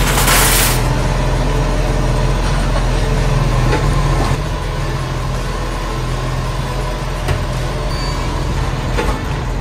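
Garbage truck's engine running steadily with a low drone, with a short burst of air hiss in the first second.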